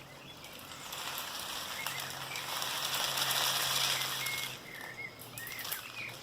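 Homemade rain stick, with aluminium foil inside the tube, tipped so its filling trickles through with a soft pattering hiss like falling rain. The sound swells to its fullest about halfway, fades, then starts again near the end as the stick is turned.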